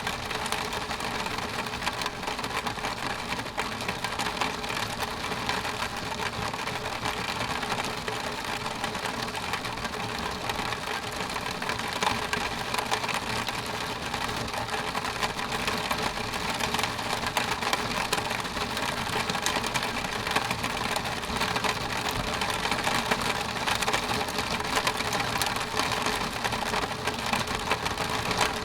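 Steady rain pattering against window glass, a dense even hiss of many small drop impacts.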